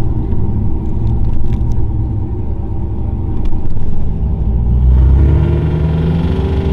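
Turbocharged truck engine rumbling at a low, uneven idle, then revving up about five seconds in with a rising pitch.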